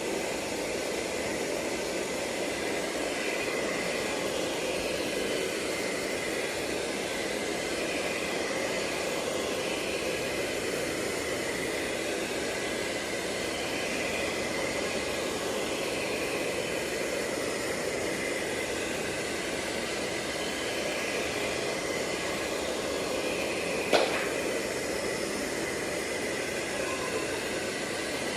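ILIFE V5s Max robot vacuum running steadily in spot-cleaning mode: an even suction-fan whir with a thin high whine, and one sharp click near the end.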